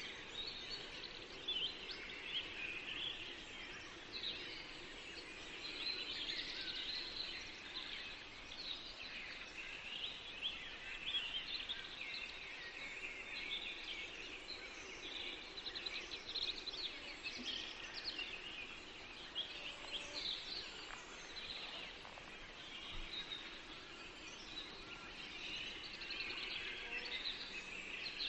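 Many songbirds singing at once in a forest, a dense chorus of overlapping chirps and trills over a faint steady hiss.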